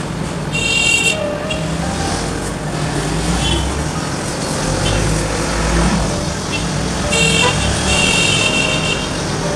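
Road traffic with car horns: a horn blast about half a second in, a few short toots in the middle, and two more near the end, the last lasting about a second, over a steady low rumble of engines.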